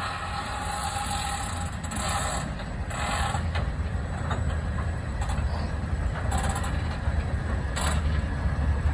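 Freight train rolling slowly past: a low rumble that grows louder, with a high metallic squeal from the wheels that comes and goes, strongest in the first few seconds.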